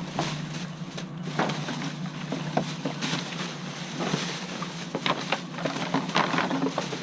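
Rustling and scattered knocks of hands rummaging through wet trash in a dumpster, over a steady low hum.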